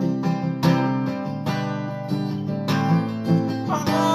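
Acoustic guitar strummed in a steady rhythm, ringing chords about every half second, in the closing bars of a pop-country song. A sung vocal line comes in near the end.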